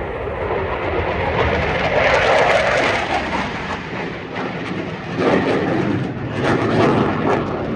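Jet noise from a Eurofighter Typhoon's twin engines during a display flight, loud and continuous, swelling about two seconds in and again around five seconds in.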